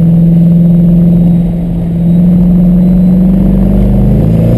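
Mercedes-Benz E55 AMG's V8 heard from inside the cabin, pulling under load as the car accelerates, its pitch holding and then climbing steadily through the second half.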